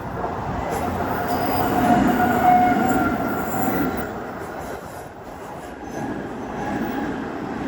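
An Odakyu Line electric train running past on the tracks, loudest about two seconds in, with a couple of steady high tones over the rumble of the wheels.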